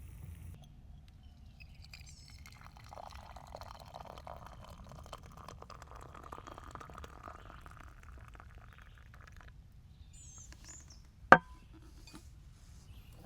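Liquid being poured for several seconds over a low steady rumble, followed a couple of seconds later by a single sharp knock.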